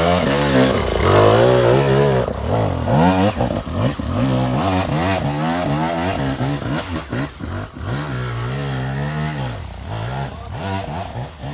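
Off-road motorcycle engine revving up and down repeatedly, its pitch rising and falling with short drops between bursts of throttle, loudest in the first few seconds.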